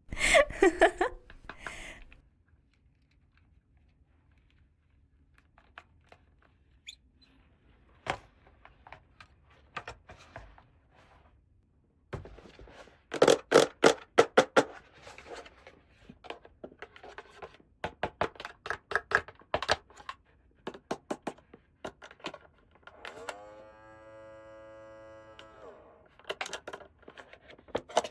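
Small plastic toy pieces being handled and set down: a rustle at the start, then irregular sharp clicks and taps, clustered in quick runs. About three-quarters of the way through comes a held pitched squeak or tone lasting about two seconds.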